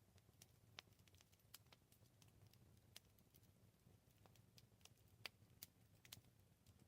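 Faint wood campfire crackling: scattered single pops and snaps, about two or three a second, with a couple of sharper snaps about five seconds in, over a faint low steady hum.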